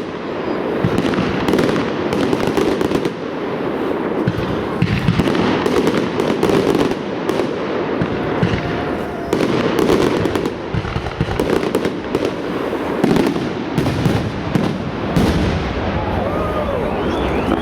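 Fireworks display in a dense, continuous barrage: shell bursts and crackling following each other with no real pause.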